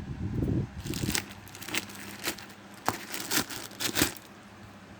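Cardboard and plastic packaging being handled and pulled open: crinkling and rustling with several sharp clicks and taps.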